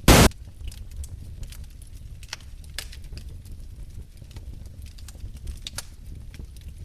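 Wood fire in a fireplace crackling, with irregular sharp pops over a low steady rumble. A brief loud burst of noise comes right at the start.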